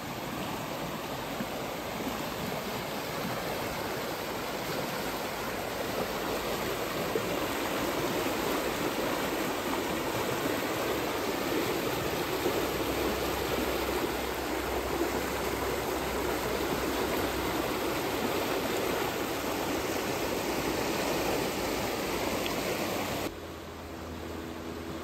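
Falling Creek's water rushing steadily, a little louder partway through. Near the end it drops abruptly to a quieter background with a faint low hum.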